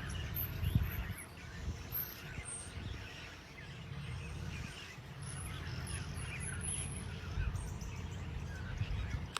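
Many birds chirping and calling in a busy chorus of short notes, over a low rumble.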